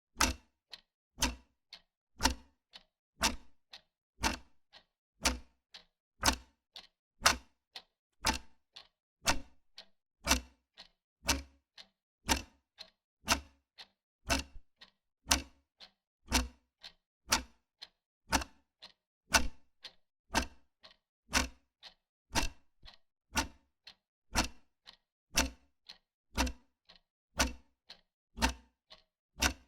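Wall clock ticking steadily, about two ticks a second, with a louder tick alternating with a softer tock.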